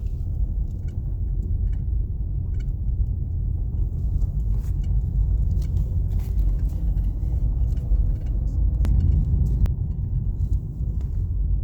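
A car driving along a road: a steady low rumble of engine and tyre noise, with a few faint scattered ticks.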